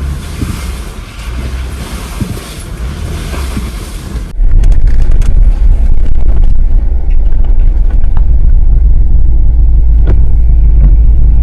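Jeep Wrangler driving slowly on a trail. At first its low rumble runs under a steady hiss of wind and rain; about four seconds in the hiss drops away and a loud, deep rumble with scattered clicks takes over.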